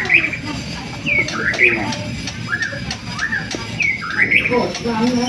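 Murai songbird singing a fast, varied song of short whistled and chirping notes, some rising and some falling, repeated every half second or so, with lower notes near the end.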